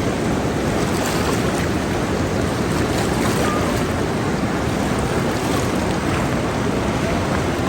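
Steady rushing of a fast river running high after heavy rain, an even roar of moving water.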